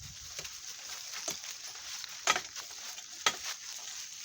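Donkey cart rolling over rough ground: a steady crackling rustle, with a sharp knock about once a second.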